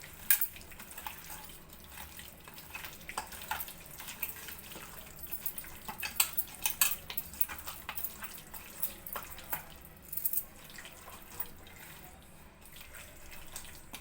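Wet, sticky squelching and clicking of raw chicken pieces being mixed into a thick egg and spice-flour marinade in a bowl, in irregular short bursts.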